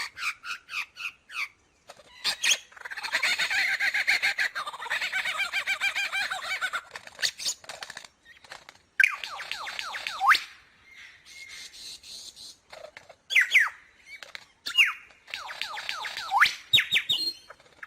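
Lyrebird singing a varied song: quick chirps, then a long rattling chatter, then a series of sweeping whistles.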